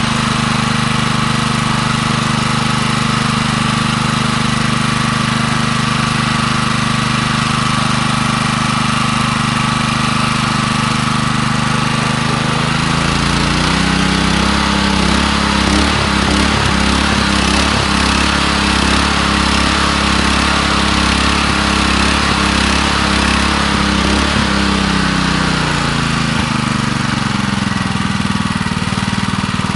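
Ruslight 168F-2 single-cylinder petrol engine running steadily. About 13 s in its speed drops and stays lower for some 13 s, with a few light knocks. Then it picks back up to the earlier speed.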